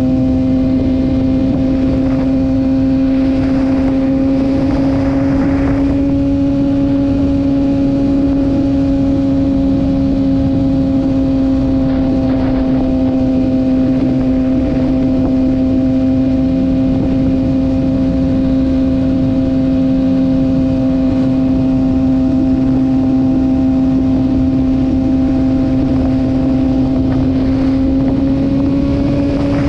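Kawasaki ZX-6R inline-four sportbike engine holding a steady cruising note, with wind rushing over the rider's microphone. The engine note rises slightly near the end.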